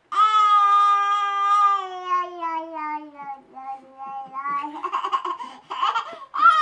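A toddler's voice imitating a goat's bleat: one long high 'maaa' that slowly falls in pitch and wavers, followed by shorter broken sounds and another high call near the end.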